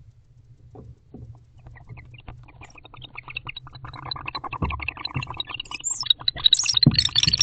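Barn owls in a nest box giving a rapid clicking chitter that builds up and grows louder toward the end, rising into a dense twittering.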